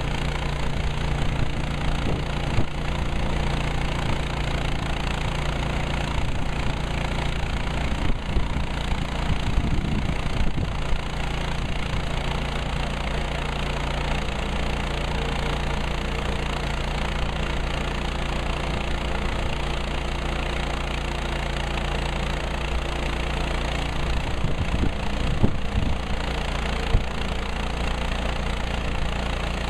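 Woodland Mills HM130MAX portable band sawmill running steadily, its engine the main sound, with a few short knocks or clatters about eight to eleven seconds in and again near the end.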